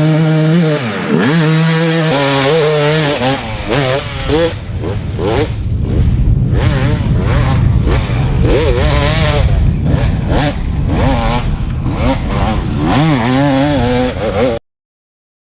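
Yamaha YZ250's single-cylinder two-stroke engine revving under throttle, its pitch repeatedly rising and falling as the rider blips and opens it up, with heavy rushing noise through the middle stretch. The sound cuts off suddenly near the end.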